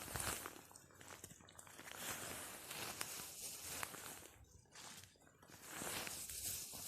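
Dry oak campfire crackling, with a few sharp snaps, over a soft hiss and rustling of movement beside it.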